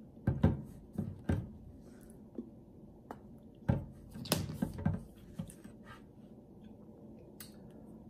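A person chewing food with the mouth close to the microphone: wet smacks and small clicks in two bursts, one just after the start and one around four seconds in, then quieter chewing.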